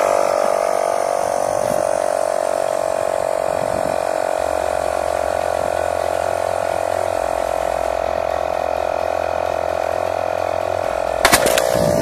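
Small 12 V electric air compressor running steadily with a rattling buzz as it pumps air into a water-filled plastic-bottle rocket. Near the end there is a sharp burst as the pressurised rocket blows off its launcher.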